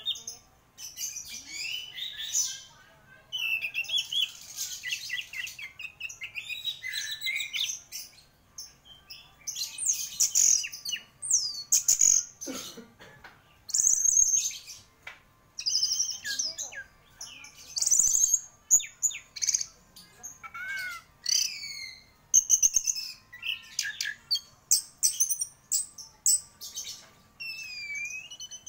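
Orange-headed thrush singing continuously: a fast, varied run of high whistled and chattering phrases with brief pauses between them.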